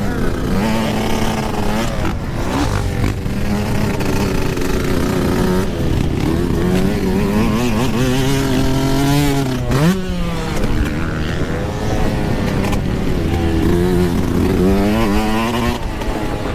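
Yamaha YZ125 two-stroke dirt bike engine being ridden hard: the pitch climbs and drops again and again with throttle and gear changes, with short breaks off the throttle and a sharp rev that falls away just before the tenth second.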